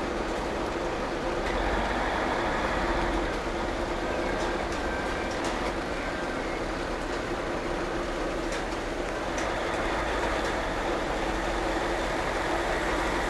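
Steady rain, with scattered drops ticking close to the microphone.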